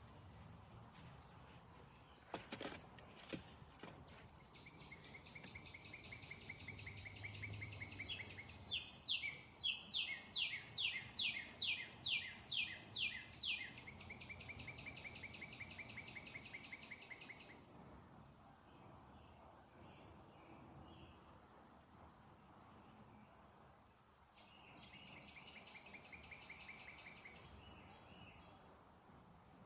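Crickets keep up a steady high-pitched drone while a songbird sings long runs of rapid trilled notes. The loudest part of its song is a series of about ten sharp falling notes, roughly two a second, in the middle. A few faint clicks come near the start.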